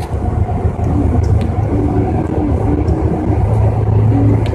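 Metro train running, heard from inside the carriage: a loud, steady low rumble with a faint, broken whine.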